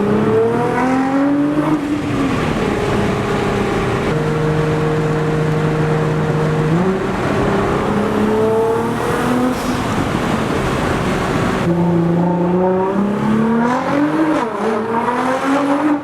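Nissan GT-R engine revved up and held at steady high revs for a few seconds, as for a launch. About seven seconds in it lets go into a rough, noisy rush as the all-wheel-drive car takes off. Rising revs come in again near the end.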